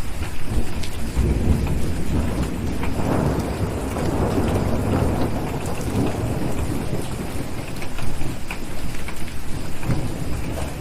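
Rolling thunder rumbling under steady heavy rain, the rumble swelling about a second in and fading out after about six seconds, with scattered sharp ticks over the rain.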